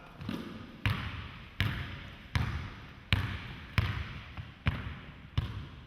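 A basketball dribbled with a steady rhythm, one bounce about every three quarters of a second, seven bounces in all.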